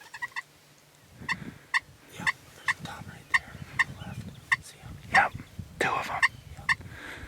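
Wild turkey gobbling twice, about five and six seconds in, over a run of short, evenly spaced calls, roughly two a second.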